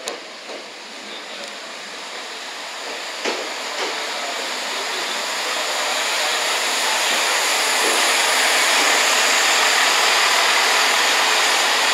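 Chiltern Railways Class 165 diesel multiple unit running into the platform: a rushing hiss that grows steadily louder over about eight seconds and then holds, with a few light knocks in the first four seconds.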